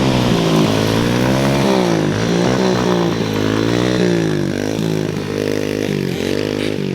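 Dirt bike engine running close by, its pitch rising and falling several times as the throttle is opened and rolled off.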